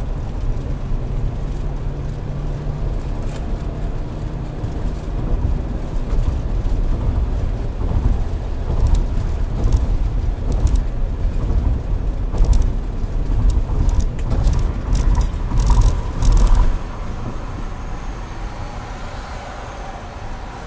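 Road and engine noise of a moving car at highway speed, a steady low rumble. From about halfway through comes a run of sharp knocks, and the rumble then drops off quickly near the end.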